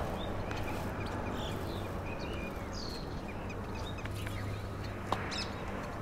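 Small birds chirping in short, scattered high notes over steady background noise, with one sharp click about five seconds in.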